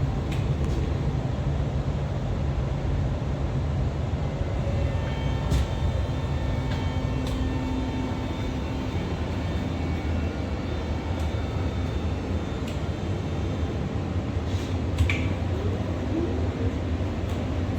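Inside a moving REM light-metro train: the steady low rumble of wheels on the track, with a faint hum that comes and goes and a few light clicks.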